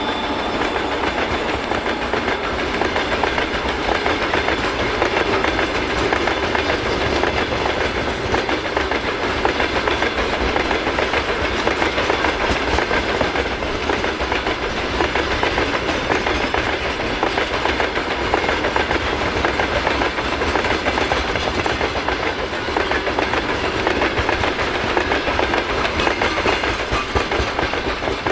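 Freight train wagons rolling past in a continuous, steady rush, their wheels clattering over the rail joints.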